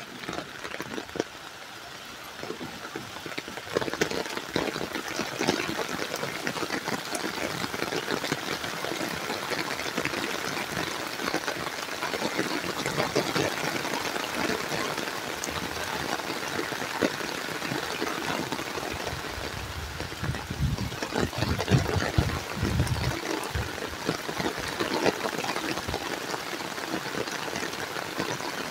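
Heavy rain pouring down in a steady hiss of dense patter, growing heavier about four seconds in. A burst of low rumbling, the loudest moment, comes about two-thirds of the way through.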